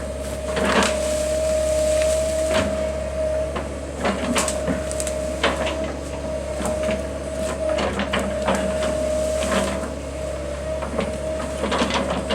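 Excavator engine running with a steady whine, over a string of sharp cracks and snaps of breaking wood as trees are knocked down and a root ball is worked loose.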